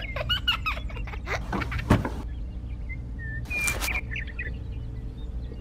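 Small birds chirping and twittering in the background, over a low steady hum. A single sharp knock comes about two seconds in, and a brief rustle follows shortly before four seconds.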